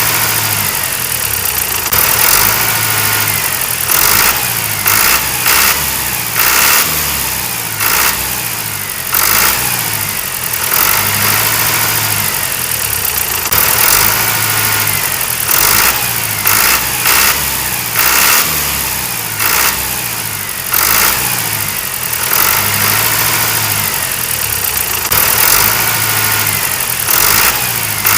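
Mini tractor's small engine running, with short surges of revving that come back in a repeating pattern every few seconds.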